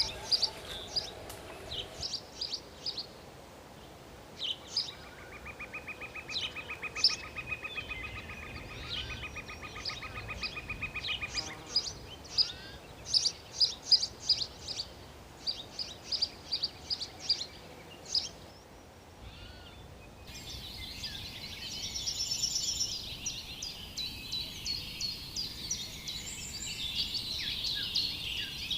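Wild birds calling: many short, sharp chirps, with a buzzy trill held for about six seconds in the first half. About two-thirds of the way in, the background changes abruptly to denser, overlapping twittering.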